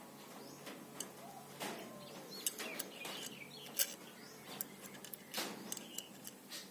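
Scattered light clicks and taps, the sharpest about four seconds in, from hand work on the steel tank and its fitting, with birds chirping and doves cooing in the background.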